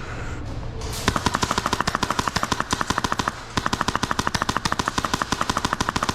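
Airsoft electric gun firing full-auto: two long bursts of rapid, even shots, the first starting about a second in and the second following a brief pause.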